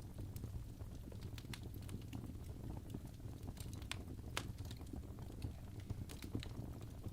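Wood fire in a fireplace crackling: a steady low rumble of burning with irregular sharp snaps and pops, the strongest about four seconds in.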